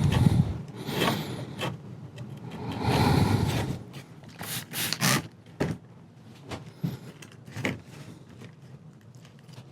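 Scrubbing and rubbing on the wooden frame of an old marquetry armchair, lifting off dirt, old oils and wax with a cleaner. There is a longer stretch of scrubbing about three seconds in, then short scattered rubs and light taps.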